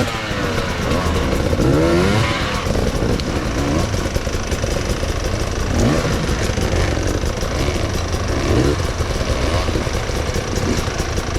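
Enduro dirt bike engine revving up and down in short rises and falls as it is ridden off-road.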